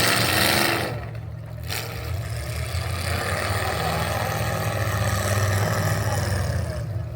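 Truck engines running and revving, a steady low rumble with a loud burst in the first second that drops away briefly, then continues.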